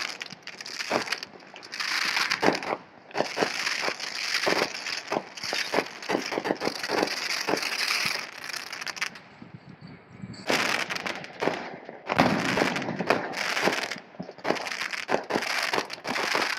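Fireworks going off in quick succession, a dense popping and crackling with hiss between the cracks, easing briefly about nine seconds in before picking up again.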